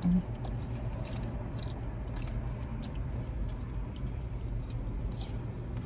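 Close-up chewing and crunching of crackers with deli meat and cheese, with scattered short crackles over a steady low rumble.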